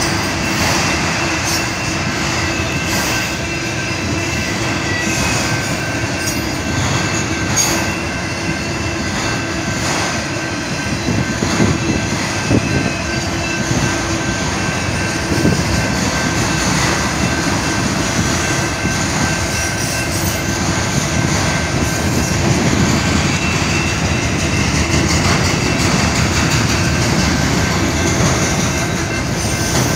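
Freight train of autorack cars rolling steadily past, the steady noise of steel wheels on the rails, with a thin continuous squeal from the wheels.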